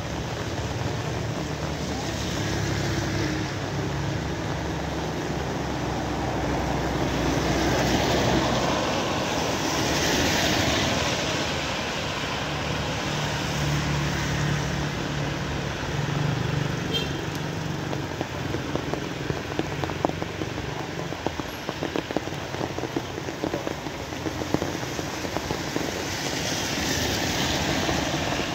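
Steady rain, with traffic going by on a wet road. The hiss swells twice, about a third of the way in and near the end, over a low hum, and sharper drip ticks come through in the second half.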